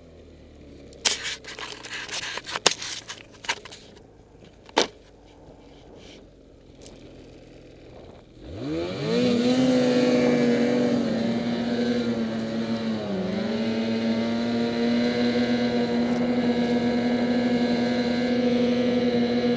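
Scattered knocks and clicks for the first several seconds, then about eight seconds in a Ski-Doo MXZ Renegade 800's two-stroke engine revs up quickly to a loud, steady high drone. The drone dips briefly once and then holds steady.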